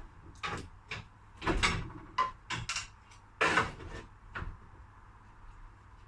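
Irregular knocks and clunks of hand work in a van's engine bay, about a dozen over four seconds, then it goes quiet.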